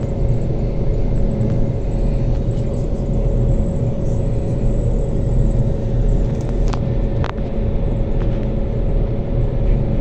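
Steady running noise of a moving passenger train heard from inside the carriage: a low rumble of wheels and running gear with a constant whine. Two sharp clicks come about seven seconds in, half a second apart.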